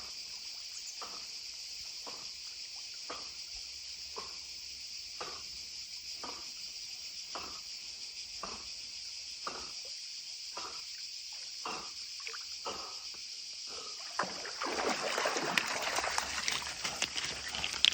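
Steady chirring of insects, with soft water sounds about once a second from a black Labrador paddling as it swims. Louder splashing and movement start about fourteen seconds in.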